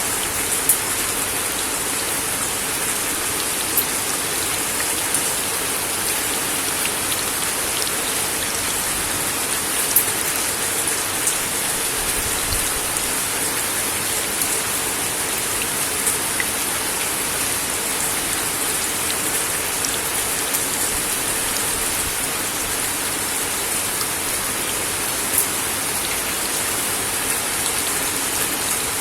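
Steady rain falling on a wooden deck, a constant patter with now and then a louder single drop striking close by.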